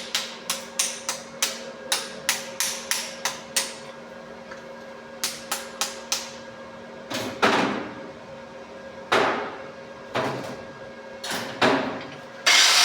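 Hammer striking metal: quick light taps about three a second, then after a pause a few more taps and several heavier, ringing blows. Just before the end a power tool starts up with a steady loud whir.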